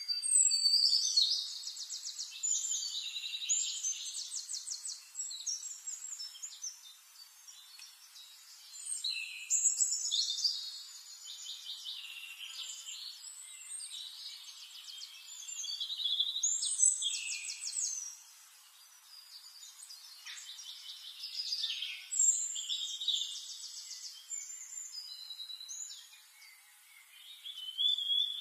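Songbirds singing rapid trills and warbling phrases, in spells of a few seconds with short quieter gaps between them.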